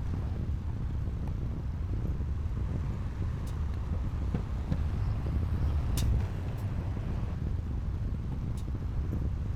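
Diesel engine of heavy earthmoving machinery running with a steady low rumble, with a few sharp clicks about three and a half, six and eight and a half seconds in.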